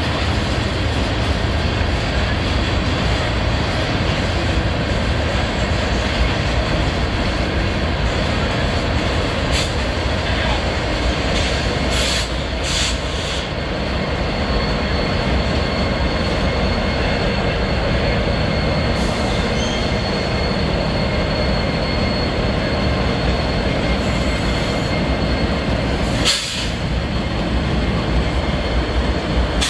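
Union Pacific diesel locomotives rolling past close by in a light-engine power move, their engines running over the steady rumble of steel wheels on rail, with a train of covered hopper cars passing on the next track. A faint thin wheel squeal runs through it, with a few sharp clicks about twelve seconds in and again near the end.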